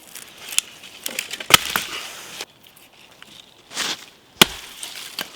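Wood being chopped: several sharp strikes with crunching and splintering, the two loudest about a second and a half in and near four and a half seconds.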